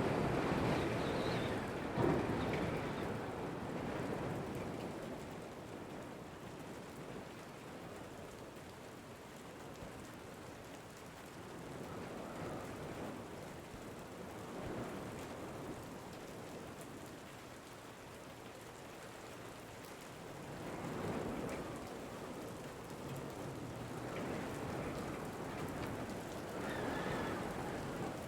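Steady rain with wind, the whole sound swelling and easing in slow gusts every few seconds. There is a single sharp tap about two seconds in.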